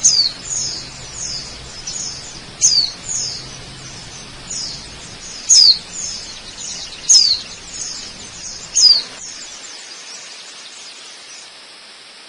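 Bird calls: a string of short, high, quickly falling chirps, a few each second at times, over a faint steady background hiss.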